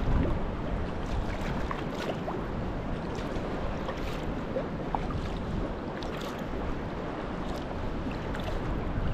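Sea water splashing and lapping around a sea kayak and its paddle blades in a light swell, with wind buffeting the microphone.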